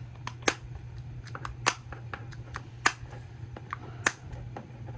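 Small hinged plastic storage-container lids snapping shut, four sharp clicks about a second apart with lighter clicks between.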